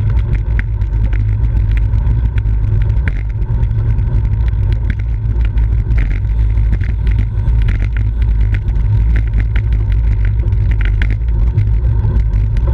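Steady low wind rumble buffeting the microphone of a camera riding on a bicycle at race speed, with scattered short clicks and rattles.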